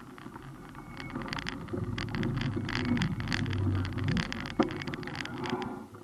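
A motor vehicle passing close to a moving bicycle: its engine and tyre rumble swells to a peak about three to four seconds in, then eases. Short clicks and rattles run through it.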